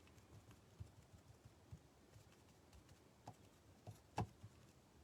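Faint, irregular light taps and clicks of small tabletop craft work, with one sharper click about four seconds in.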